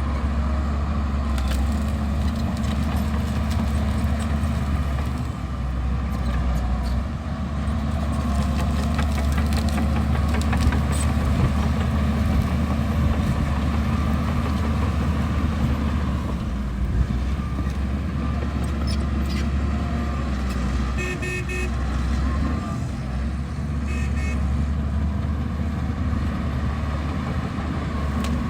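Heavy diesel earth-moving machinery running steadily under load, with a deep engine hum and scattered clanks. Two short high tones sound about 21 and 24 seconds in.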